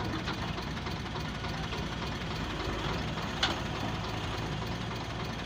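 Heavy diesel engine running steadily at low revs, with a single sharp knock about three and a half seconds in.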